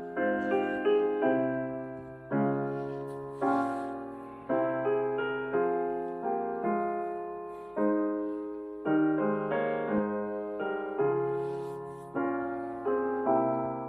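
Slow, gentle piano music: soft chords struck one after another, each ringing out and fading before the next.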